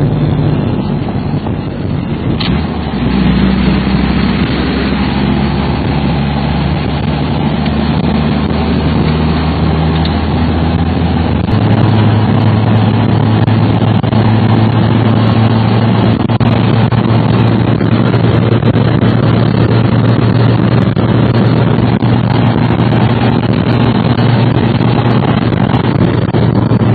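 A motor vehicle running: a steady low engine hum under a loud, even rush of noise. The hum changes pitch a few seconds in and again near the middle.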